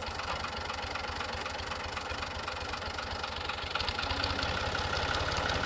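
Fiat tractor's diesel engine running with an even, rapid firing beat, growing a little louder from about four seconds in.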